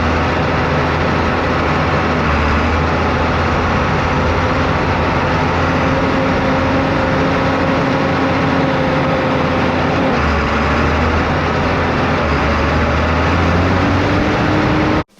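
John Deere 4960 tractor's diesel engine running steadily under way on the road. Its pitch drops about ten seconds in and climbs again near the end, and the sound cuts off suddenly at the end.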